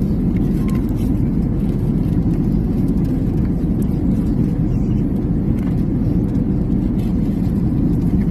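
Steady low rumble of an airliner cabin in flight, the jet engines and rushing air, with a few faint light clicks over it.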